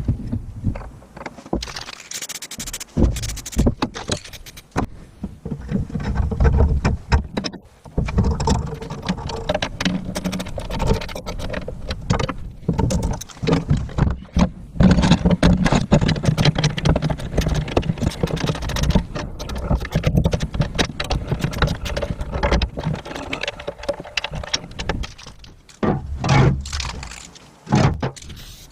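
Hand work on a cast-iron wood stove: irregular metal knocks, clatter and scraping, thickest through the middle of the stretch.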